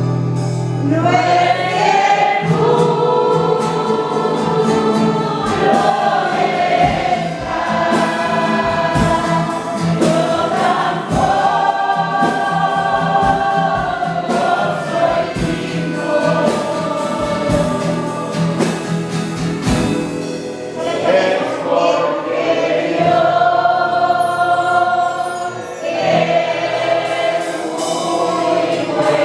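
A choir singing a Christian hymn in long, held phrases with short breaks between them.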